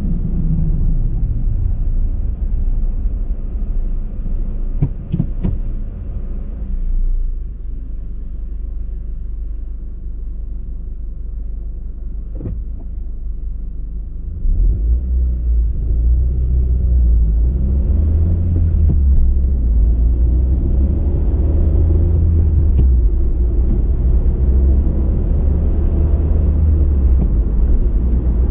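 Car driving on the road: a steady low rumble of engine and tyres, with a few faint clicks. It drops for several seconds near the middle, then grows louder and stays there from about halfway through.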